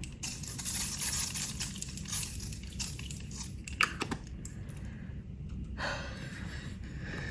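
Makeup setting spray misting from a pump bottle: a run of hissing sprays, then a couple of light clicks and one more short spray later on.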